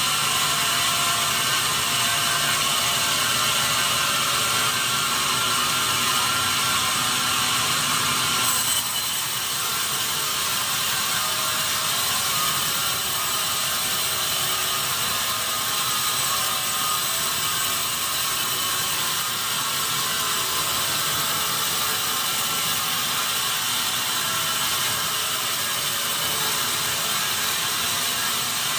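Sawmill machinery running steadily while processing acacia logs, a dense mechanical clatter; the higher part of the noise drops away about eight seconds in.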